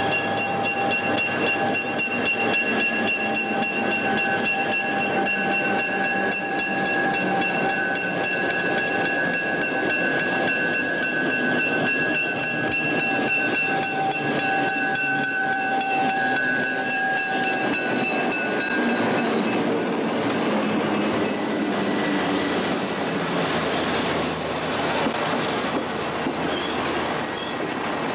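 Pittsburgh & Lake Erie diesel commuter train approaching and running past, a heavy rumble carrying a steady high-pitched tone that holds without a break and stops about two-thirds of the way through. The rumble continues after that, and a thin high squeal comes in near the end.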